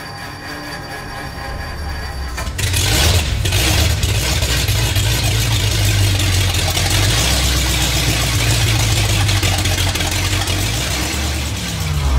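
Rebuilt flathead V8 catching and starting about two and a half seconds in, then running steadily with a loud low rumble.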